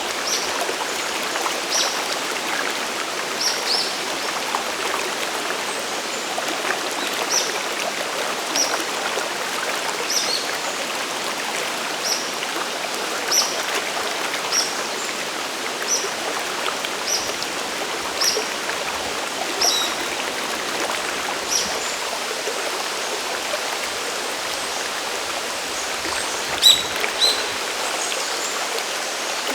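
Steady rush of falling and flowing water at Sagiri Falls on the Nanuki River, with short high-pitched blips every second or so and two louder ones near the end.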